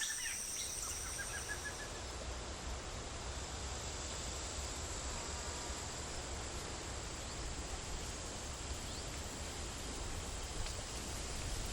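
Bird chirps in the first two seconds, including a short rising series of notes. They give way to a steady outdoor hiss with a low rumble underneath.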